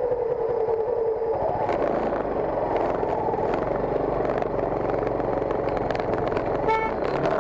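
Motorcycle engine running on the move, its note falling over the first second or so, with a short vehicle horn toot near the end.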